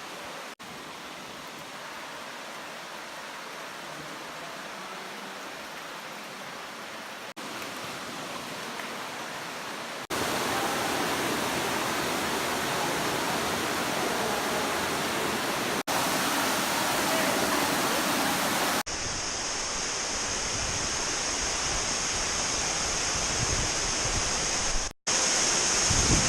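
Steady rushing water, heard across several short cuts that each step louder. About two-thirds of the way through, a steady high-pitched whine joins it.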